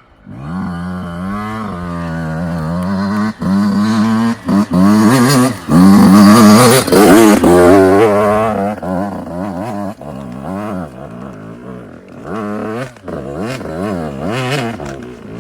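Yamaha YZ85's two-stroke single-cylinder engine revving up and down as the dirt bike is ridden, loudest about halfway through and then quieter.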